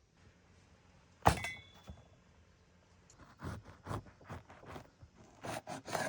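A hard clink about a second in, with a brief metallic ring, then a quick run of lighter knocks and taps over the last few seconds: kitchenware being handled and set down.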